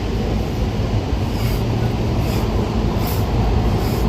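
Los Angeles Metro B Line electric subway train pulling away from a station, heard from inside the car as a steady rumble and rattle.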